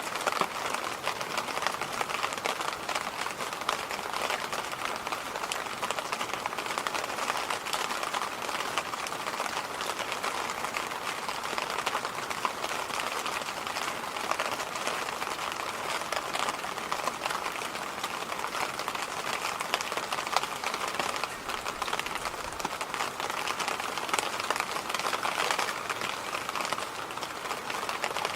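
Electric fan running steadily: an even, airy hiss, brightest in the middle and upper range, with little low rumble.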